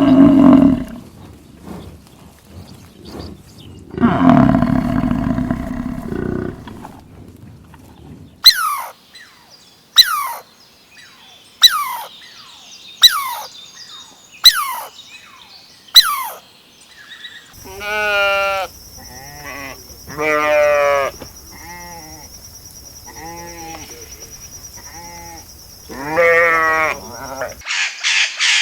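A run of different animal calls. Two loud, low calls come first, then six sharp falling chirps about a second and a half apart. Then comes a series of quavering calls over a steady high-pitched whine, and rapid repeated calls right at the end.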